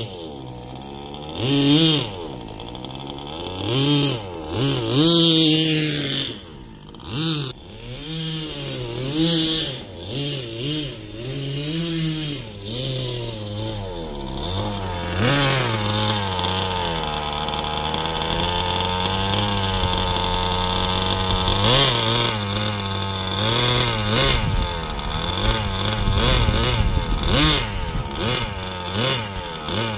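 HSP 1/8 monster truck's 3.5 cc (.21) nitro engine running, its pitch rising and falling again and again as the throttle is worked, then holding a steadier high-pitched run for roughly the second half.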